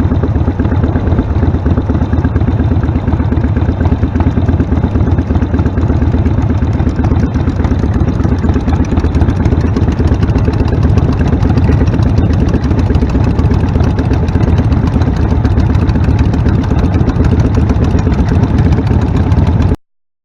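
Harley-Davidson Sportster V-twin running through Vance & Hines Shortshots Staggered exhaust, a steady, loud, deep pulsing beat that cuts off suddenly near the end.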